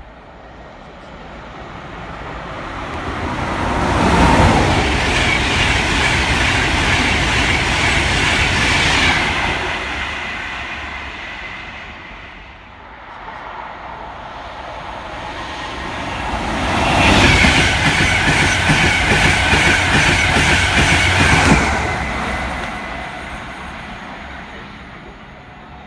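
Two trains passing at speed, one after the other. Each builds to a loud rush of steel wheels on rail, peaking about 4 and about 17 seconds in and lasting about five seconds, then fades away.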